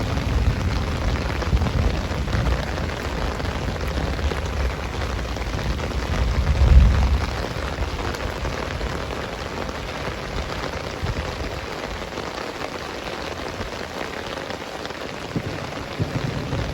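Heavy rain pouring steadily, with low rumbles swelling under it, the loudest about seven seconds in.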